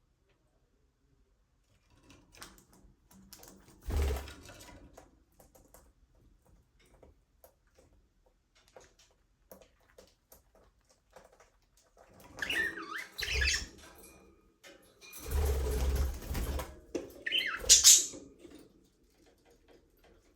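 Budgerigars in an aviary: scattered small scratches and clicks, a short loud flurry about four seconds in, then budgie chirps around two-thirds of the way through and again near the end, with a longer rush of noise between the two chirp spells.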